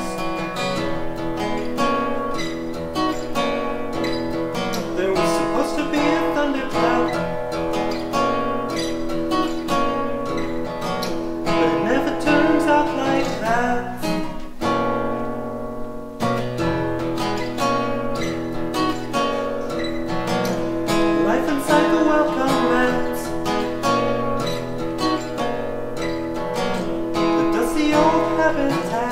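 Acoustic guitar strummed in an instrumental passage of a song, with a brief drop in the playing about halfway through.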